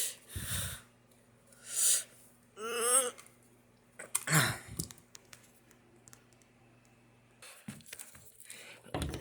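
Faint steady low electrical hum that stops about three-quarters of the way through, broken by short breathy vocal sounds and one brief muttered utterance. A few small clicks of handling follow near the end.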